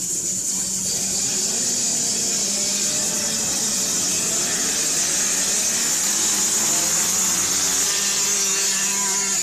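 Several small 65cc and 85cc two-stroke motocross bikes running together, a steady high buzz with engine notes rising and falling.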